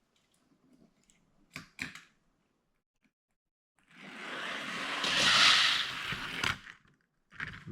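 Die-cast toy cars released down a toy race track: two light clicks as they are set in place, then a rushing rolling noise that builds for about three seconds and cuts off suddenly at the end of the run.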